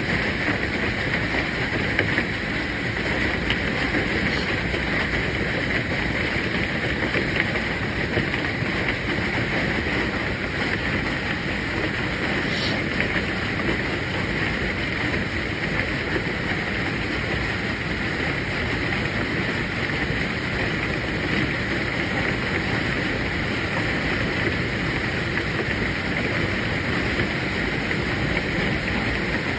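Hail falling in a thunderstorm: a dense, steady roar of many small impacts, with a couple of sharper single hits standing out, one about four seconds in and one near the middle.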